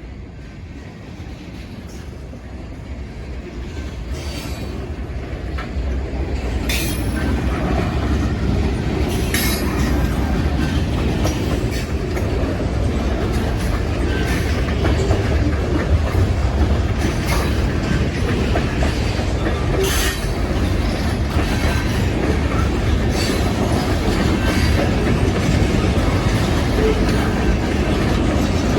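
Grenada Railway train approaching and rolling past, growing louder over the first several seconds. The wheels click over rail joints, with occasional wheel squeal.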